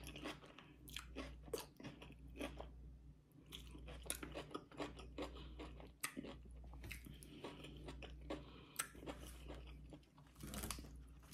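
A person chewing and crunching a mouthful of tossed salad with raw vegetables close to the microphone: irregular, faint crunches and wet clicks. A low hum runs underneath.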